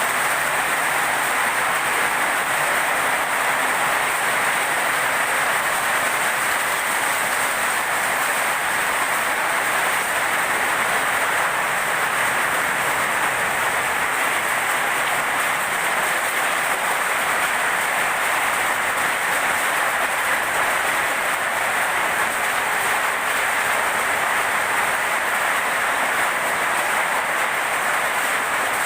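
Heavy rain pouring down steadily in a storm, a dense, unbroken hiss with no letup.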